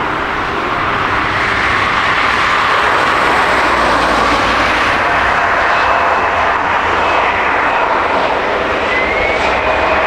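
Jet airliner's engines running loud and close: a dense rush of noise, with a steady whine coming in about halfway and one tone rising slightly near the end.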